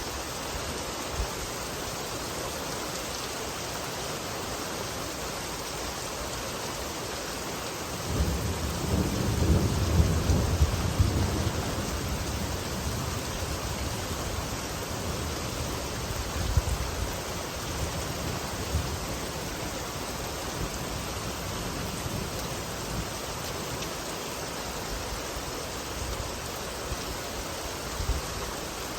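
Steady rain falling, with a roll of thunder that starts about eight seconds in, swells for a few seconds and then fades away.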